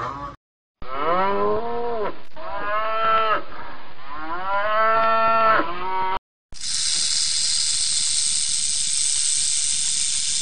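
Three long, drawn-out mooing calls, each rising and then falling in pitch. After a brief gap they give way to a snake's steady high hiss that lasts about four seconds.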